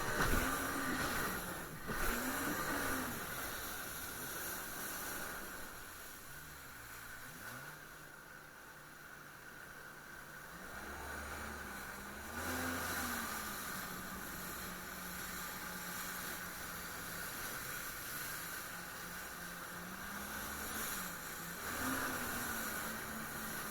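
Jet ski engine running under a steady rush of wind and spray noise, its pitch rising and falling with the throttle; it eases off and drops lower about six seconds in, then picks up again around twelve seconds.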